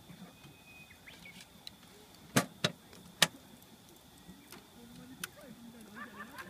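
Burning wood in a campfire giving three sharp pops close together, two quickly one after the other and a third about half a second later.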